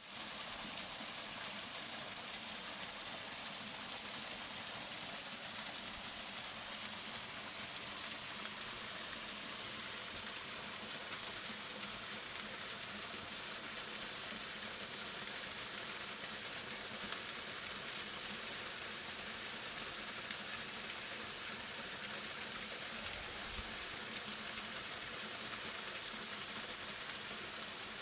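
Small stream waterfall running steadily under a shell of ice, the water pouring down inside the ice as if through a pipe, giving an even splashing hiss.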